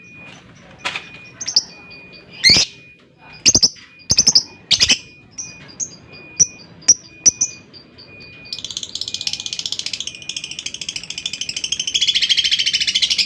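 Lovebirds giving sharp, high single chirps, then, about two-thirds of the way in, a long, fast chattering trill that grows louder near the end. This is the sustained 'ngekek' chatter that lovebird keepers prize.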